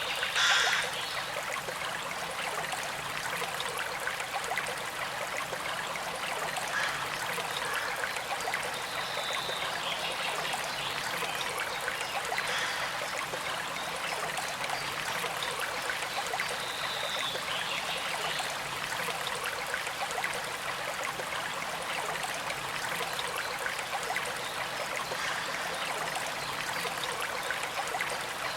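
Small creek flowing steadily with a continuous trickle, brightening briefly now and then. A short louder sound stands out about half a second in.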